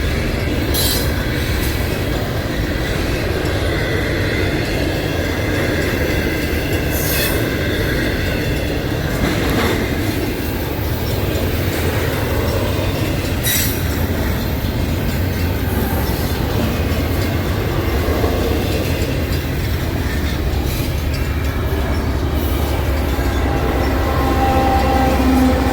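A train running on the rails with a steady, loud rumble, a few sharp clicks from the wheels over the track and faint high squealing in the first half.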